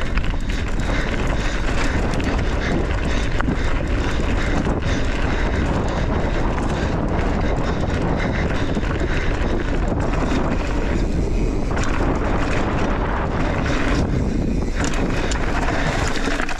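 Steady wind rush over the microphone, with the rumble of a mountain bike rolling fast over a dirt jump trail.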